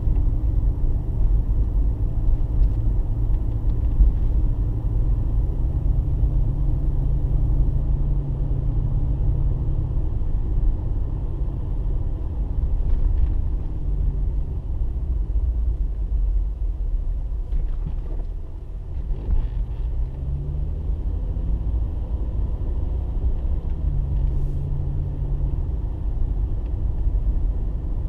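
A car driving at low speed, heard from inside the cabin: steady low road and engine rumble, with the engine note rising and falling slightly now and then.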